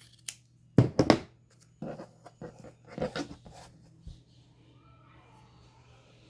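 Paper and craft pieces being handled on a worktable: a cluster of sharp knocks and rustles about a second in, more around two and three seconds, then fainter shuffling.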